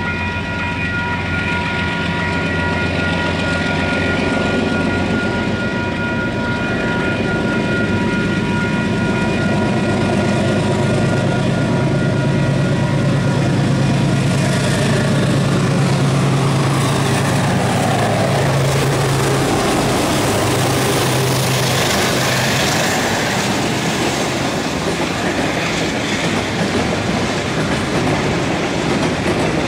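Freight train going by: the diesel locomotives' engines grow louder as they approach and pass, then container wagons roll past with a steady broad rumble. A steady high ringing tone fades out within the first several seconds.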